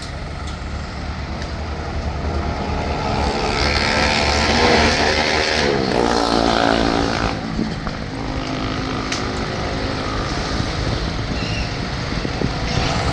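Engine of a Hydra mobile crane running under load, revving up to a peak about four to five seconds in and then settling back to a steadier run.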